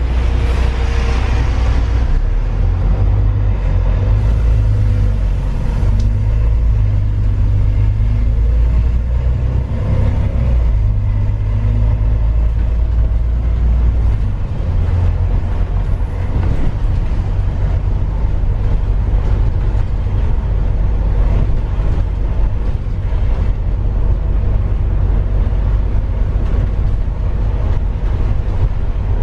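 Motor vehicle running: a steady low engine drone with road rumble that shifts in pitch a couple of times, as gears or speed change.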